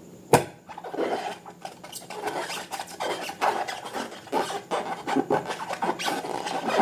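Slime being worked by hand, with irregular sticky rubbing and crackling strokes after a single sharp click about a third of a second in.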